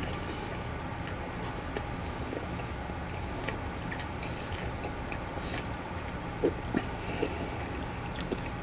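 A person chewing a bite of crispy-skinned duck breast, with small wet clicks and smacks of the mouth over a steady low hum.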